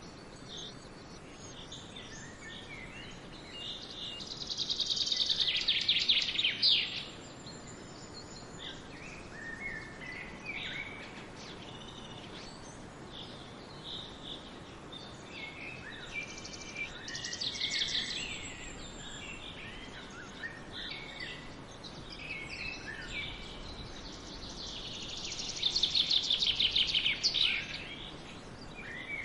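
Forest birdsong: several birds calling with short chirps and whistles. A loud, fast trill about four seconds in and again a few seconds before the end, with a quieter trill midway. A steady background hiss runs underneath.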